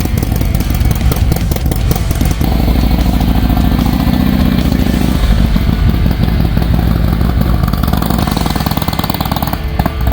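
Motorcycle engine running, a steady low rumble that grows fuller about two and a half seconds in.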